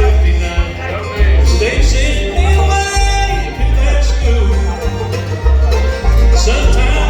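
Bluegrass band playing an instrumental break, banjo and guitar picking over a steady walking bass.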